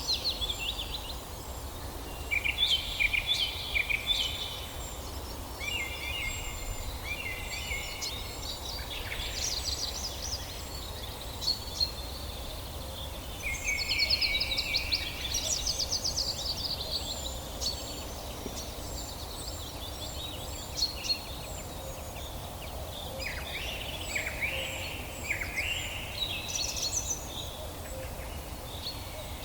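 Several songbirds singing in overlapping phrases of chirps and quick trills, with a thin high note repeating about once a second and a steady low rumble underneath.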